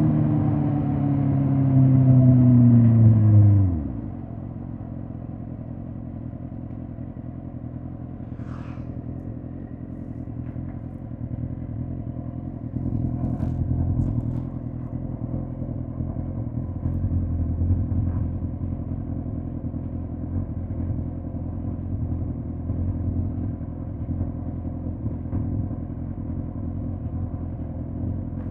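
2005 Suzuki GSX-R1000 K5 inline-four engine winding down, its pitch falling as the bike slows. The note drops away sharply about four seconds in, leaving a lower, steady rumble that swells a little now and then.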